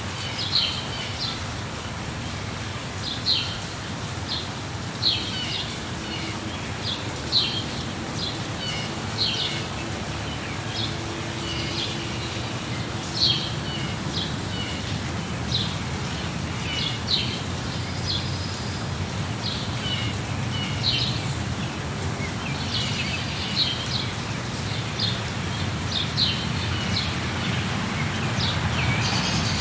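Steady rain with birds chirping over it: short high chirps repeating every second or two.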